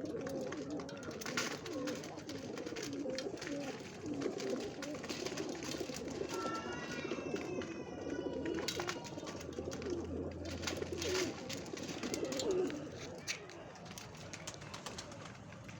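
Pigeons cooing, several at once in an overlapping chorus, with a brief higher wavering call about six to eight seconds in; the cooing thins out near the end.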